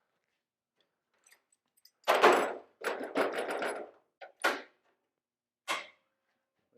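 Metal parts and tools being handled on a sheet-metal panel: a loud clatter of knocks about two seconds in, a second of quick rattling, then two more single knocks.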